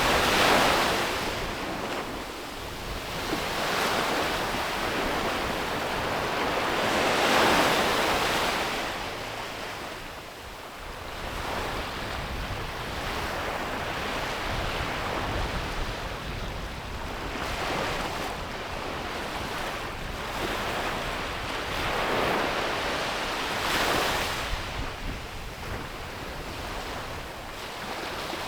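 Ocean waves breaking and washing onto a beach, the surf swelling and fading several times, loudest near the start and about seven seconds in. Wind buffets the microphone, with a low rumble underneath.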